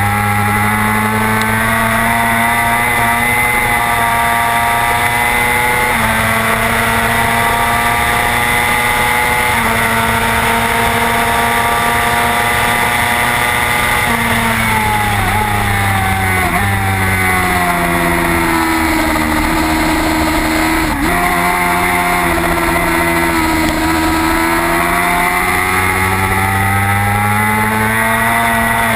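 Racing motorcycle engine at high revs, recorded onboard with steady wind rush. The pitch holds and steps up at gear changes near 6 and 10 s, falls for several seconds from about 14 s as the bike slows, then climbs again from about 22 s as it accelerates.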